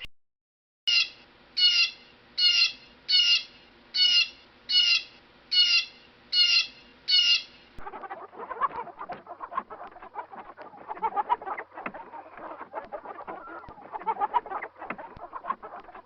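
A bird gives nine evenly spaced high calls, a little under a second apart. About halfway through this gives way abruptly to a flock of chickens clucking over one another.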